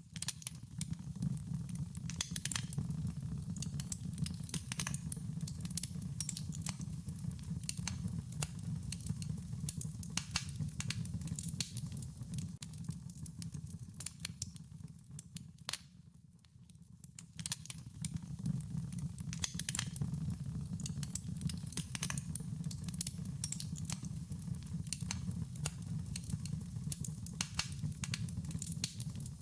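Wood fire crackling, with frequent sharp pops and snaps over a steady low rumble of burning. The rumble fades out briefly about halfway through, then comes back.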